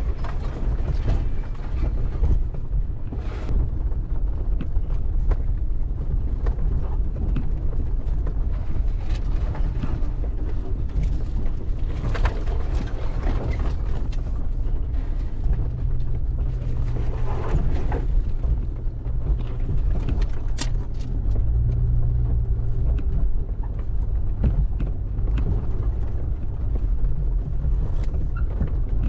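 1999 Jeep Cherokee XJ driving, a steady low engine and road rumble with scattered knocks and rattles; the engine note rises briefly twice in the second half.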